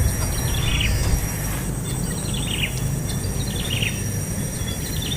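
Baby bird chirping: short falling calls repeated about once a second over a steady low rumble.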